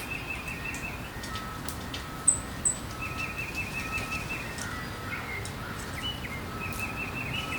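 Several backyard birds calling and singing: repeated chirping trills and short whistled notes, with two sharp high chirps a little over two seconds in as the loudest sounds, over a steady low background hiss.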